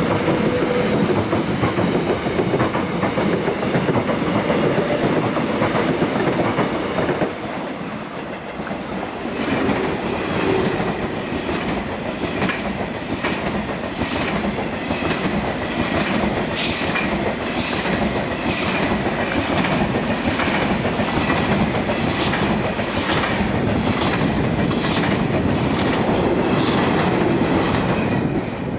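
A Korail Class 311000 Line 1 electric train pulls out with a steady rumble. Then a KTX-1 high-speed train runs past, its wheels clacking over the rail joints about once a second for the last twenty seconds.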